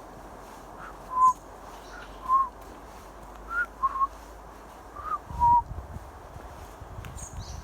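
Short clear whistled notes in pairs, a slightly higher note then a lower one, repeated four times over about five seconds. Faint high chirps from small birds come in twice.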